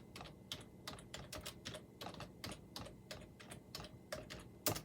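Faint, irregular keystrokes on a computer keyboard, about twenty clicks at uneven spacing, with one louder click near the end.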